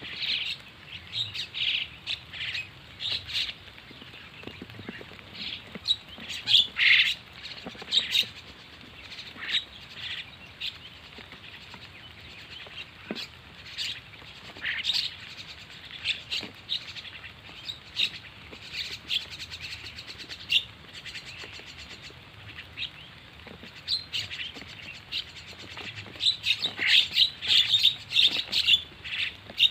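Starling (jalak) calls: many short chirps and whistles repeated over and over, growing busier near the end. This is the lure call used to draw in wild starlings.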